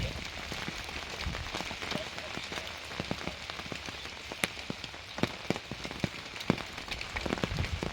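Steady rain falling, with many sharp, irregular drop taps on a nearby surface.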